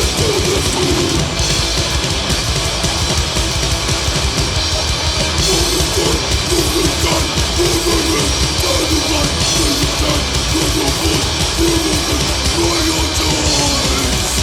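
Extreme metal band playing at full tilt: heavily distorted guitars and bass over dense, pounding drums, steady and loud throughout.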